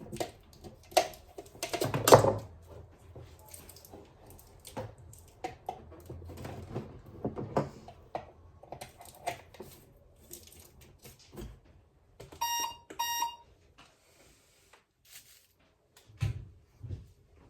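Kitchen handling sounds, a string of clicks, knocks and light clatter, with an electronic appliance beeping twice about two-thirds of the way through.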